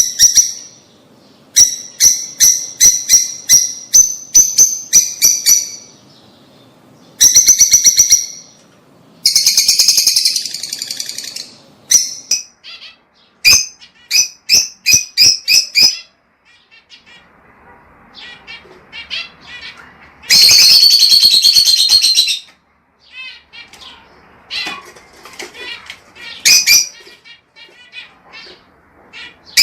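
Lovebirds chirping and chattering in rapid runs of sharp, high-pitched calls, broken by a few harsh screeches lasting about two seconds each.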